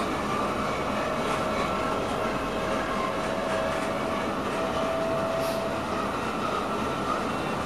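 Passenger train running along the line, heard from inside the driver's cab: a steady rolling noise with a faint steady whine through the middle.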